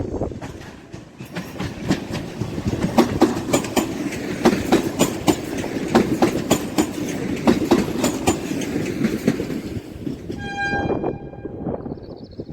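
Freight train rolling past, its wagon wheels clacking over the rail joints in a dense run of sharp clicks. Near the end it dies away and a short, high-pitched tone sounds for about a second.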